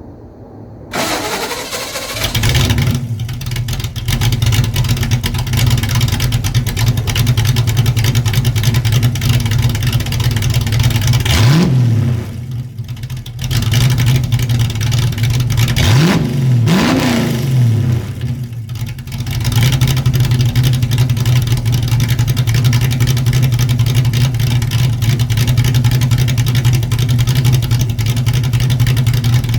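A 1979 Ford Mustang's cammed 5.0 V8 starting up about a second in and settling into a steady idle through a catless H-pipe dual exhaust with Flowmaster mufflers. It is revved once about halfway through, then twice in quick succession a few seconds later, dropping back to idle each time.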